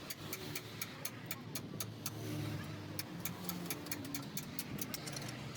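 A quick, irregular run of sharp clicks or taps, several a second, over a low steady engine-like hum.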